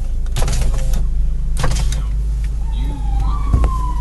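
An emergency vehicle siren wailing over the low, steady road rumble inside a moving car. The siren comes in about three seconds in, rising briefly and then slowly falling in pitch. Two short rushes of noise come earlier.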